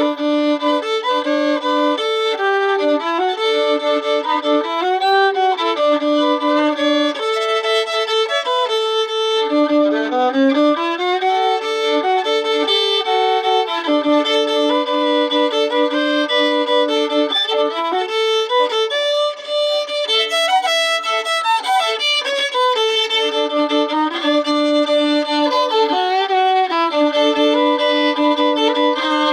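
Solo fiddle (violin) played bowed, a practice run at a Cajun-style tune: continuous notes with two strings often sounding together and notes sliding up and down into pitch, with a brief break about two-thirds through.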